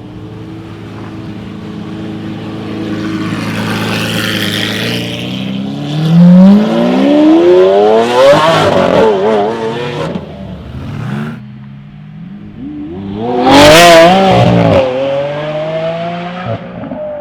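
V12 supercar engine running at steady low revs, then accelerating hard with its pitch climbing steeply about six seconds in, and a second hard pull about thirteen seconds in that is the loudest moment, before easing off.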